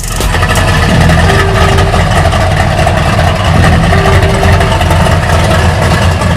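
GMC Sierra's stroker engine running hard, loud and steady, under a dense rushing noise, as in a burnout. It begins and ends abruptly.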